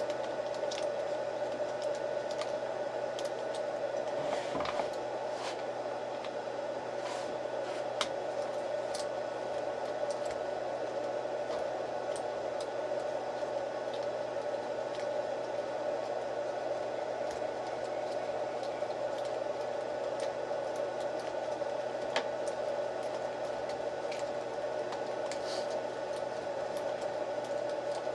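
A steady, even whir with a few faint sharp clicks scattered through it.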